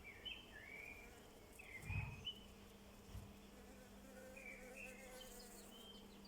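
Songbirds chirping in short, quick whistled notes that bend up and down, over a faint steady low hum. There is a dull low thump about two seconds in.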